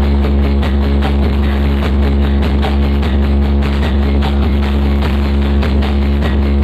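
Indian-style music played loud through a large sound system, with a heavy steady bass and held tones over a regular beat.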